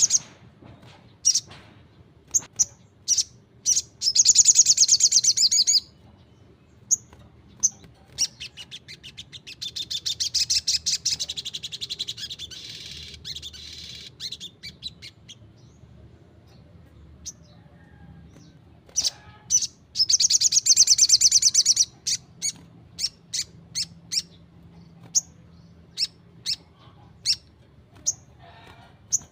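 Little spiderhunter (sogon) singing: a string of sharp, high single chirps broken by three fast rattling trills about four, ten and twenty seconds in, the middle one tailing off slowly.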